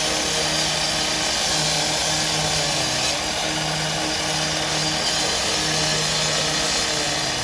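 Gas-powered saw running steadily at high speed, with a low hum that swells and drops about once a second.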